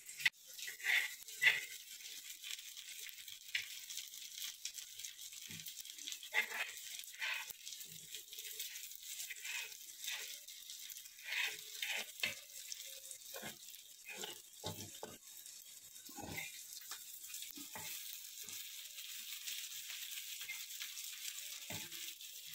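Capsicum pieces sizzling in oil on a flat tawa, with a steady high hiss. A steel spoon scrapes and clicks against the pan and a steel plate as the pieces are stirred and spice powder is pushed in; the clicks thin out over the last few seconds.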